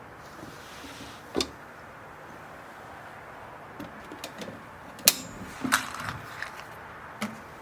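Scattered sharp clicks and knocks, the loudest about five seconds in, over a steady low hiss.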